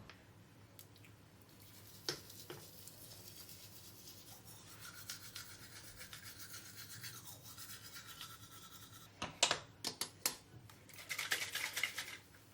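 Bristle brush scrubbing in quick short strokes, with a few sharp clicks and knocks about two seconds in and again near the end, followed by a louder spell of brushing.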